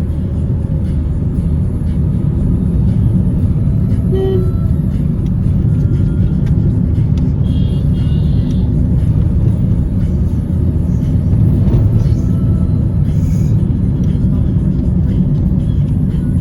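Steady low rumble of a road vehicle in motion, with a few faint short tones over it.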